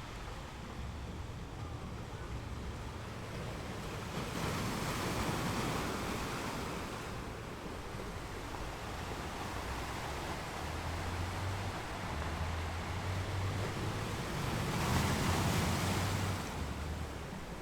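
Ocean surf washing onto a beach as a steady rush, swelling louder twice: about four seconds in and again near the end. A low rumble runs underneath.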